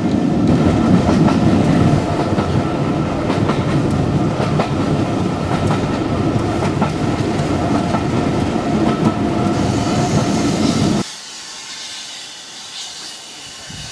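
Heritage railway carriage running along the track: a loud steady rumble with wheels clicking over the rail joints. About eleven seconds in it cuts off suddenly to a much quieter, thin hiss.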